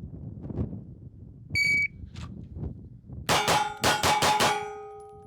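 Shot timer's start beep, then a Bill drill: a rapid string of about six pistol shots fired in just over a second. A metallic ringing lingers and fades after the last shot.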